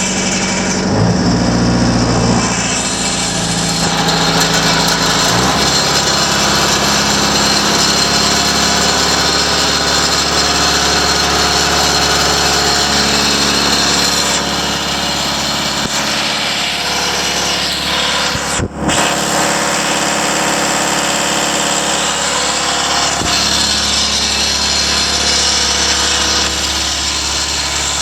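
Deutz BF4L2011 four-cylinder diesel engine running. Its speed shifts up and down in the first few seconds, then it settles to a steady run, with a brief drop in sound about two-thirds of the way through.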